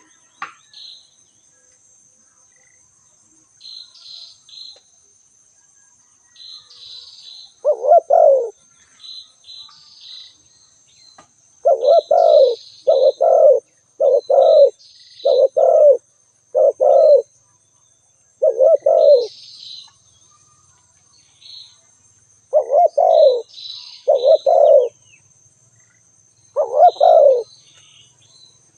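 Spotted dove cooing: loud, low notes in short phrases of two to several, repeated every second or two with gaps between phrases. Fainter, high chirps from a small bird come in between, over a steady high-pitched whine.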